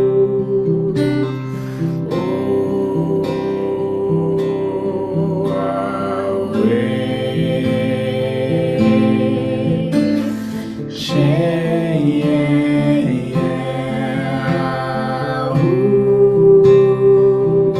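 Chanted sacred song: long, held sung vowel sounds over strummed acoustic guitar, the voice gliding to a new note about every four to five seconds.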